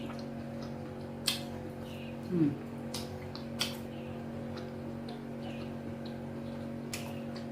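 Mukbang eating sounds: a few sharp, wet mouth clicks and smacks, with a short falling sound from the throat, like a gulp, about two and a half seconds in, all over a steady electrical hum.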